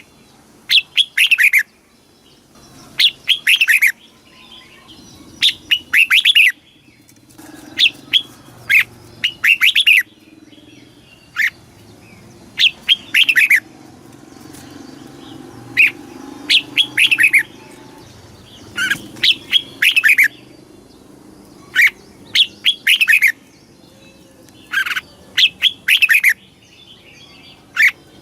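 Red-whiskered bulbul singing: short phrases of a few clear, downward-slurred notes, repeated every two to three seconds.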